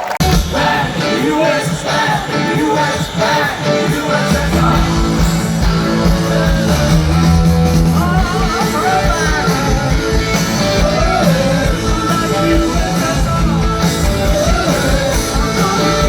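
Loud live rock music: a full band with drums and guitars, and a singer's voice over it.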